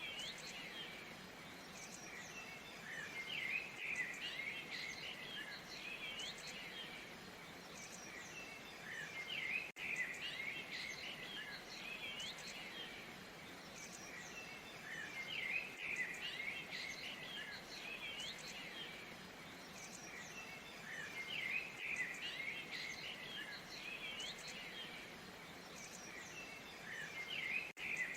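Steady rush of falling water with many birds chirping and calling over it, the birdsong swelling in clusters about every six seconds.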